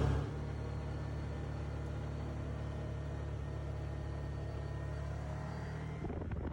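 A car engine idling with a steady low rumble. A few clicks sound near the end.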